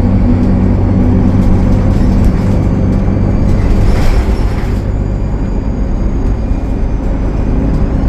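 Cummins ISL9 diesel engine of a Gillig Low Floor transit bus running steadily while the bus is under way. A brief hiss rises and falls about four seconds in.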